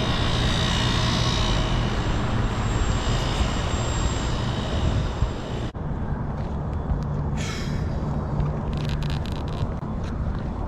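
Steady mechanical noise of rooftop HVAC condensing units running, an even rushing hiss over a low hum. A little past halfway the hiss cuts off abruptly and a steadier low hum remains.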